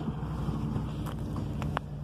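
Strong wind buffeting the microphone in a steady low rumble, with a few faint light clicks in the second half.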